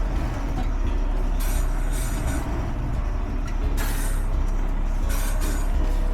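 Garbage truck's diesel engine running steadily under load, with several short hisses about a second or so apart.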